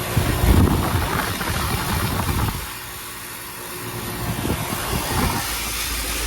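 Bryant heat pump outdoor units running in heating mode, a steady compressor and fan hum. Irregular low rumbling comes over the hum for the first couple of seconds and again about four to five seconds in.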